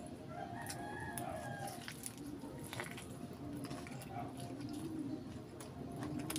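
Close-up chewing and lip-smacking of crispy fried chicken, with sharp wet clicks throughout. A rooster crows in the background about half a second in, for about a second and a half.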